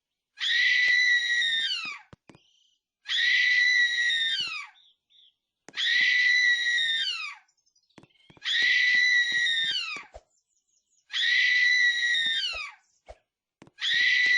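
A shrill, high-pitched scream repeated over and over at a steady pace, about every two and a half seconds. Each one holds a steady pitch for over a second, then drops away at the end.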